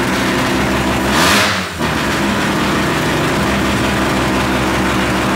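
Turbocharged race car engine running at a steady idle, with a brief swell of hissing noise about a second in.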